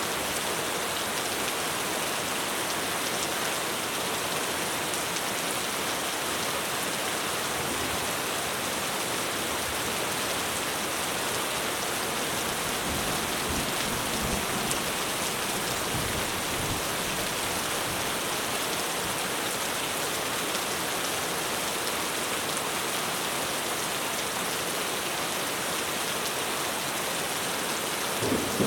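Heavy rain pouring steadily onto a roof. Faint low swells come in around the middle, and a low rumble of thunder starts right at the end.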